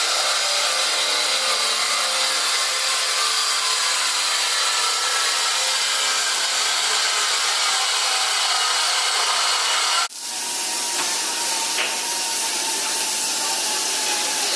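A power tool running steadily in a shop with a faint whine through it, cutting off abruptly about ten seconds in. A steadier hiss with a thin high tone follows.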